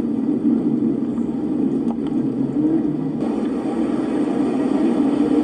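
Strong storm wind buffeting the microphone: a steady, loud rumbling roar, with a change in its sound about three seconds in.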